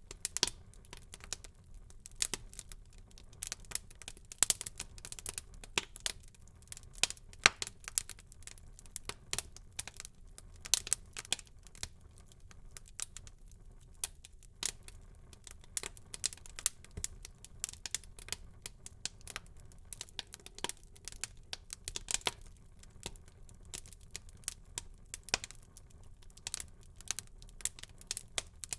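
Wood fire burning in a fireplace, crackling and popping with many irregular sharp snaps over a low, steady hiss of the flames.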